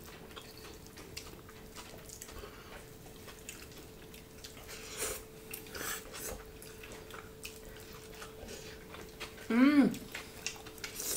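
Close-up eating sounds: wet mouth clicks, lip smacks and chewing as people eat rice and greens with their hands, over a faint steady hum. Near the end a short, loud voiced exclamation, rising then falling in pitch.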